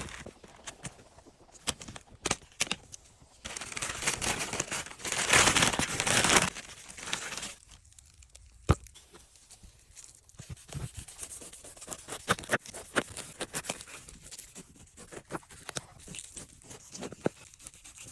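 Tearing and crunching of a pineapple being cut, with scattered sharp clicks and a loud stretch of tearing about four to seven seconds in.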